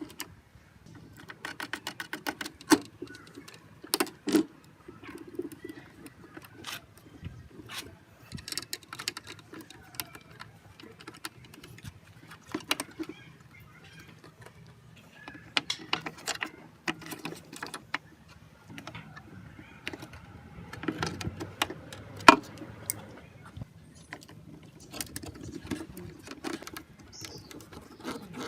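Small metal parts and hand tools clicking, tapping and rattling as they are handled, with a quick run of rapid clicks a second or two in and a few sharper knocks.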